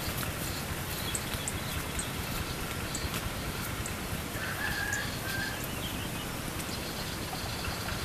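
Steady low outdoor noise with a few short, high bird chirps scattered through it and a brief whistled note about halfway through.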